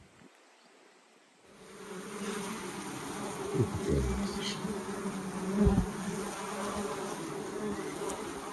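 Swarm of honeybees buzzing around a top bar hive, a steady droning hum that swells in about a second and a half in. Two low thumps come partway through.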